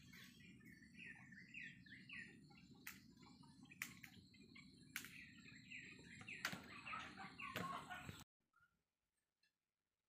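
Birds chirping in quick short calls over a low steady background rumble, with a few sharp clicks about a second apart; the sound cuts off abruptly about eight seconds in.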